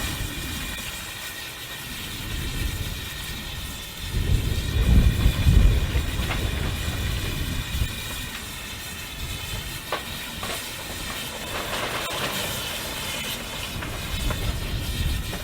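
Train running along the line, with a louder low rumble swelling about four seconds in and easing off again.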